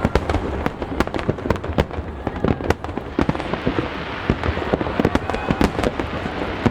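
Aerial fireworks bursting in quick, irregular succession: many sharp bangs and cracks over a continuous low rumble.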